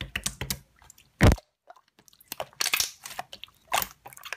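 Slime being played with by hand: a run of sharp crackling pops and wet squishes, the loudest pop a little over a second in.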